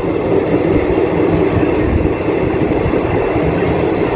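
Steady running noise of an Indian Railways express passenger train heard from aboard at speed, its wheels running on the rails.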